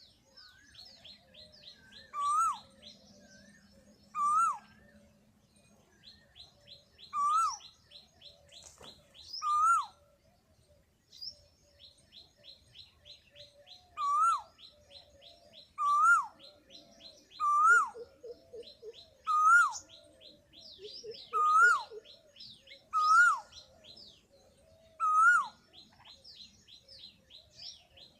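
Bird calls: a loud short call that rises and then drops sharply, repeated about every two seconds, between runs of a fast, high trill. A few short pulsed lower notes come in about two-thirds of the way through.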